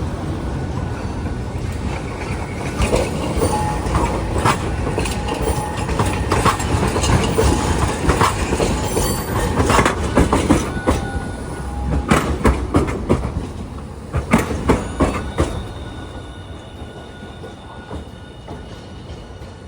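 A Hiroshima Electric Railway streetcar running past over rail joints and points, with a dense run of wheel clacks and knocks and brief wheel squeals on the curve. It fades away near the end.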